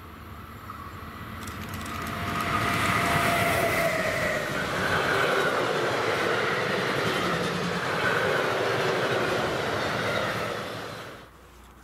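A freight train of loaded double-deck car-transporter wagons passing close by on an electrified main line. The rolling wheel and rail noise builds over about two seconds and stays loud, with a few steady high tones over it, then cuts off suddenly near the end.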